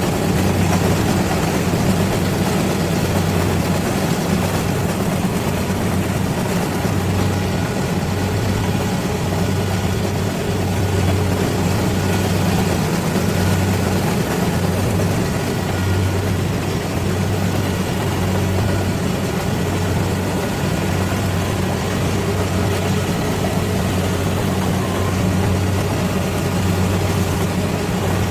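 Rice combine harvester's engine running steadily under load, a continuous low hum with a constant mechanical rush over it.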